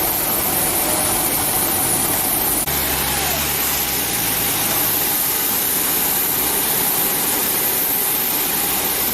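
Airliner engines running steadily, a loud even hiss with a thin high whine: first a Boeing 737-800's jet engines at taxi power, then, after an abrupt change about three seconds in, an ATR 72-500 freighter's turboprop engines.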